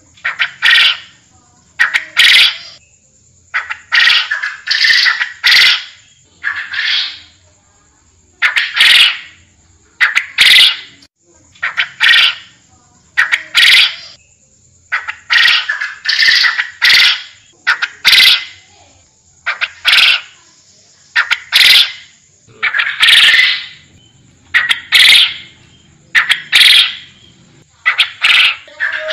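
Forest quail calling: short, harsh calls repeated every second or so, sometimes two or three in quick succession, over a faint steady high-pitched tone.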